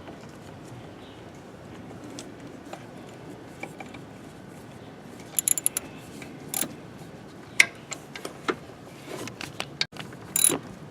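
Hand tools clicking and clinking against metal engine parts, irregular sharp taps with a quick cluster about halfway through and another near the end.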